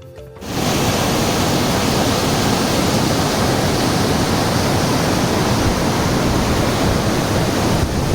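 Steady rush of fast, rough water from the Ewaso Ng'iro River, starting abruptly about half a second in.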